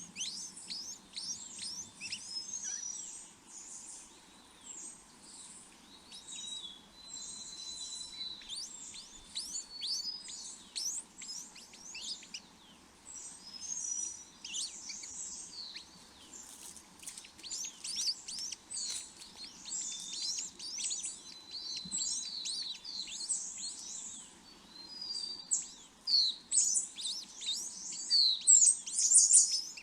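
Small birds chirping rapidly in many short, high notes that sweep quickly downward, growing busier and louder near the end.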